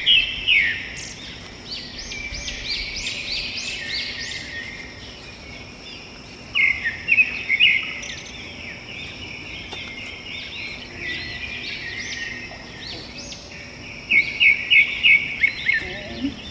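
Small birds singing outdoors: runs of quick, high chirping notes that come and go, loudest at the start, about six and a half seconds in, and again near the end.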